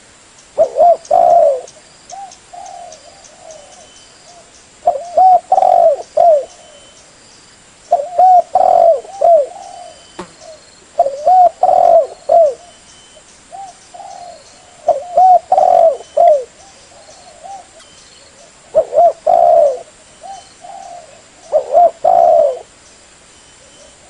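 Spotted dove (tekukur) cooing: a loud phrase of a few coos repeated about every three to four seconds, seven times, with softer coos in between.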